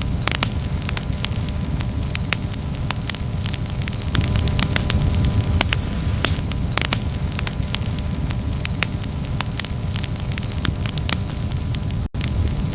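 Wood campfire crackling: a steady low rumble of flames with many sharp, irregular pops and snaps. The sound drops out for an instant near the end.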